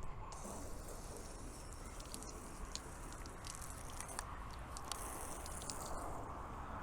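Garden hose running water through an inline deionizing filter to rinse a car: a faint hiss of spray with scattered light ticks and patter.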